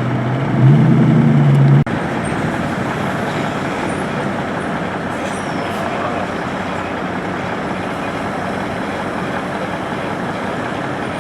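A large vehicle's engine running, rising in pitch about half a second in, then cut off suddenly just before two seconds. After that comes steady city street traffic noise.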